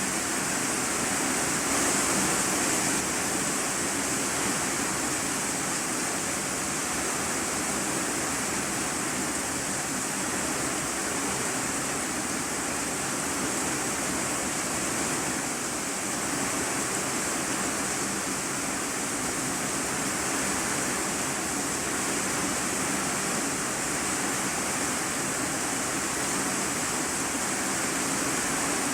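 Steady rain drumming on a corrugated iron-sheet roof, heard from the room beneath as an even, unbroken hiss.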